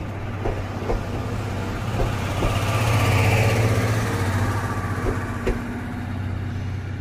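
Passenger coaches of the SL Paleo Express steam train rolling slowly past, their wheels clicking over rail joints in pairs over a steady low hum. A hiss swells up and fades around the middle.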